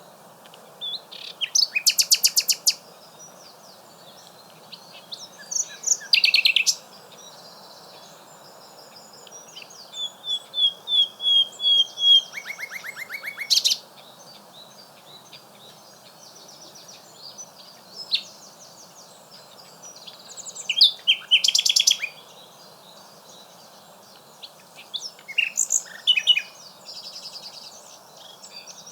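Common nightingale singing in separate phrases a few seconds apart: fast runs of rapidly repeated notes, a string of clear whistled notes and a lower rattling trill.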